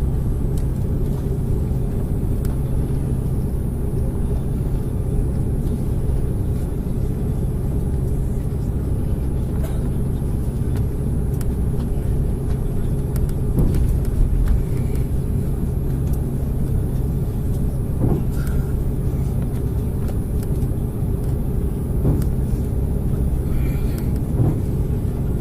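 Steady low rumble inside the cabin of an Airbus A330-300 on the ground after landing, with a few faint clicks.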